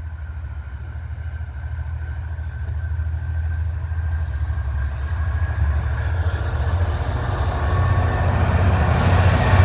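A train approaching along the track, its rumble growing steadily louder as it draws near.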